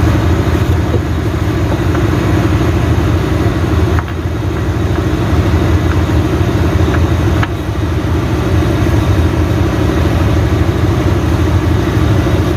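A motor-vehicle engine idling steadily with a fast, even pulse, and a couple of light knocks.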